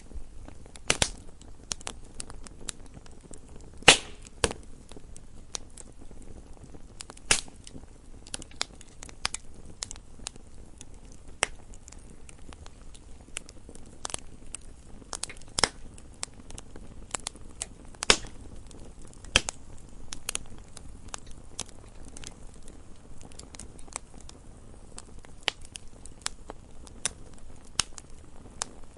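Campfire burning, with irregular sharp crackles and pops over a low, steady rumble of flames.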